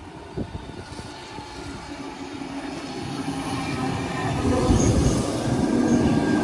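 A train approaching along the track, growing steadily louder with a rising rumble and steady hum. There are a few brief high wheel squeals about five seconds in.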